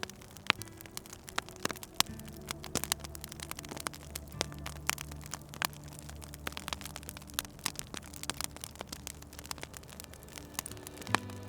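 Wood fire crackling, with irregular sharp pops and snaps throughout, over a low steady hum that shifts in pitch about two seconds in and again near the end.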